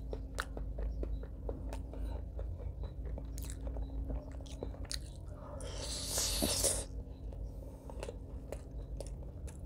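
A person chewing chicken liver in curry, close to the microphone: wet mouth clicks and smacks throughout, with one longer, louder hissing mouth sound about six seconds in.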